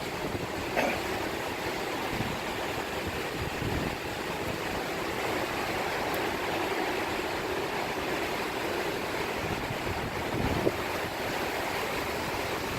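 Hurricane Irma's wind rushing steadily, with a couple of gusts buffeting the microphone, one about ten seconds in.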